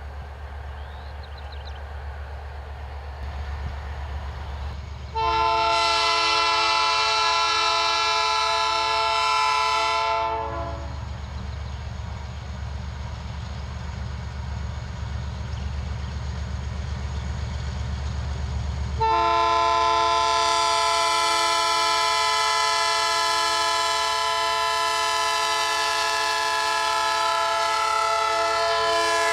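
Freight diesel locomotive running with a steady low engine rumble while its air horn sounds two blasts of several tones together: a blast of about five seconds about five seconds in, then a longer one starting about two-thirds of the way through that is still sounding at the end.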